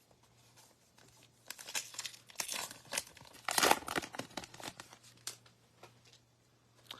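Plastic trading-card pack wrapper being torn open and crinkled, in irregular crackling bursts from about a second and a half in, tailing off into a few light ticks of cards being handled.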